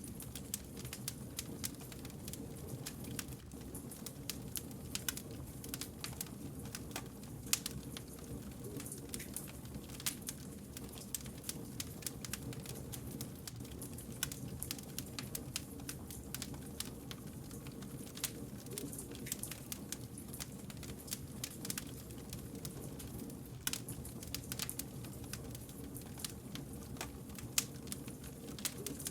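Wood fire burning steadily with many small crackles and occasional louder pops over a low rumble of the flames.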